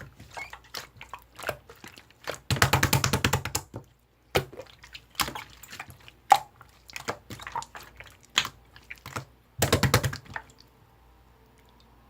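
Clear slime being squished and pressed by hand, making sticky clicking and popping sounds, with two runs of rapid clicks, about a second long each. The slime play stops about ten and a half seconds in.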